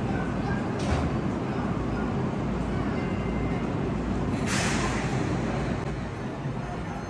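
Enoden (Enoshima Electric Railway) train running along the track with a steady low rumble, a sharp click about a second in and a short burst of hiss about four and a half seconds in.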